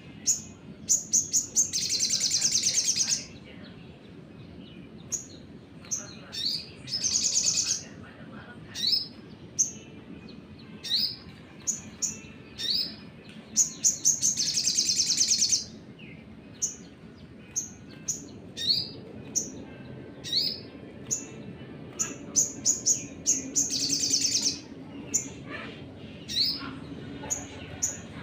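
Sunbird (sogon) singing: repeated short, high, upward-sweeping chirps broken by four long, fast rattling trills.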